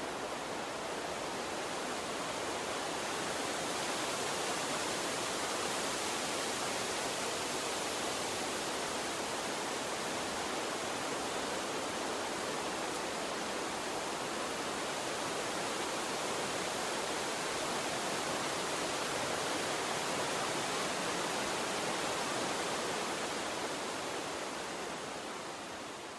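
Water stream flowing, a continuous even rush with no distinct splashes, beginning to fade away near the end.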